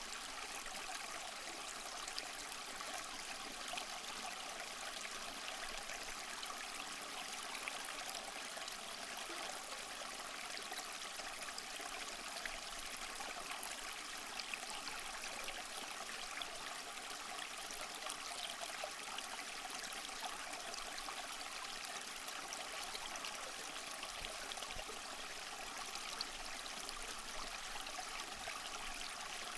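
Small waterfall splashing and trickling steadily over rocks, a continuous bright splashing with many fine droplet crackles.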